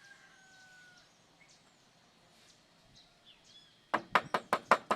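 A clogged refrigerator filter drier being knocked against a hard surface to shake out the debris packed inside it: a rapid run of sharp knocks, about five a second, starting about four seconds in. Before that it is quiet, with faint bird chirps.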